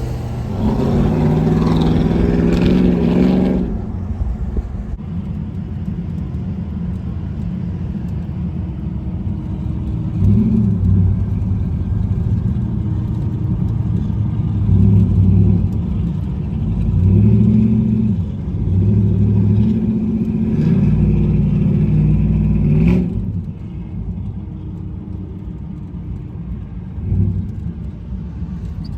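Loud performance car engine revving hard, its pitch climbing, at first for about three seconds. A steady low exhaust rumble follows, broken by several shorter rising revs of the engine.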